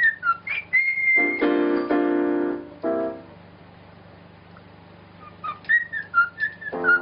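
Parrot whistling a run of short, quick notes, with one held whistle about a second in. It is joined by a few sustained keyboard-like notes. After a quiet pause, the short whistles start again near the end.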